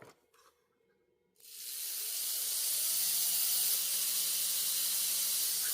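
Spray can hissing in one long, steady burst of about four seconds, starting about a second and a half in.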